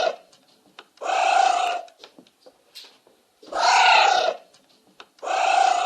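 Anteater huffing: four breathy, hissing bursts, each under a second long, about a second and a half apart.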